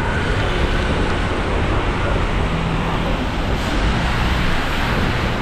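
Steady downpour of rain mixed with street traffic noise, a dense unbroken hiss and rumble.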